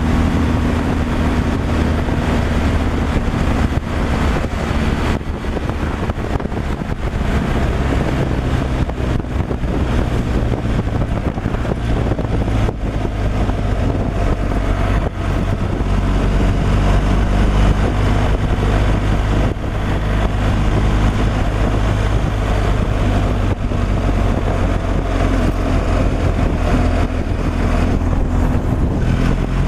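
Truck engine running steadily under way, with continuous road and wind noise and occasional knocks and rattles.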